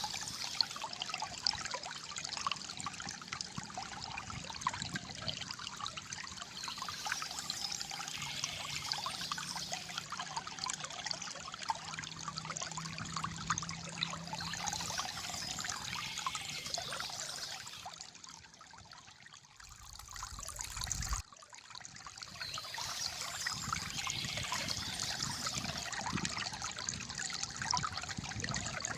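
Shallow flowing water trickling and gurgling steadily. About two-thirds of the way through the sound sinks for a few seconds, with a brief low rumble, then comes back.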